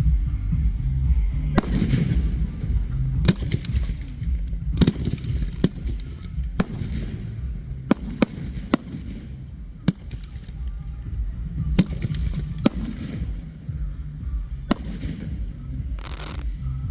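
Fireworks going off: about a dozen sharp bangs spaced irregularly, some with a short fading tail, over a steady low rumble.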